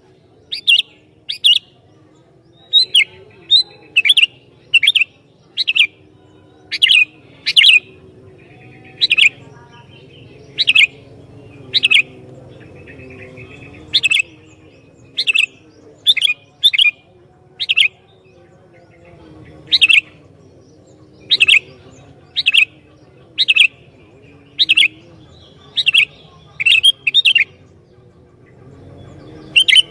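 Sooty-headed bulbul calling over and over in short, sharp notes, about one a second, with a couple of brief pauses.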